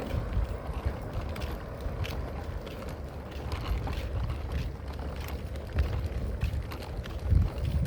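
Footsteps walking on a paved street, with an uneven low rumble of wind buffeting the microphone.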